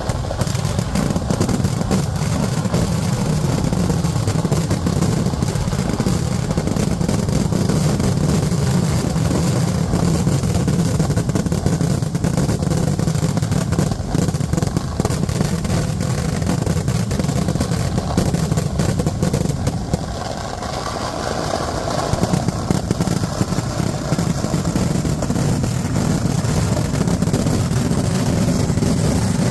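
Festival fireworks barrage: a dense, continuous run of rapid firecracker bangs over a heavy rumble, easing briefly about two-thirds of the way through before building again.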